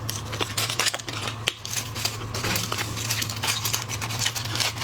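Close-up eating and handling of shrimp and langoustines: many small irregular clicks and crackles of shell, with a steady low hum underneath.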